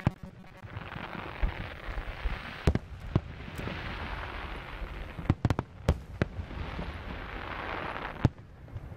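Aerial firework shells bursting in a series of sharp bangs, several close together in the middle, over a continuous crackling hiss.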